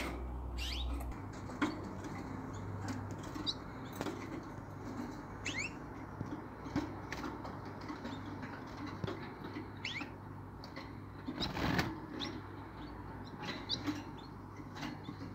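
Small caged birds giving short rising chirps every second or two, with scattered clicks and a brief rustling burst about twelve seconds in, over a low steady hum.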